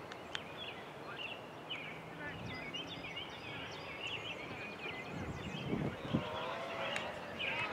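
Outdoor background noise with birds chirping and faint distant voices, and a sharp click about seven seconds in.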